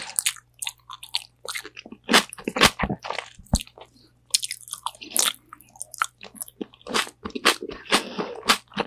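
Close-miked crunchy bites and chewing of Korean fried chicken wings: irregular sharp crackling crunches of the fried crust, several a second, busiest around the middle.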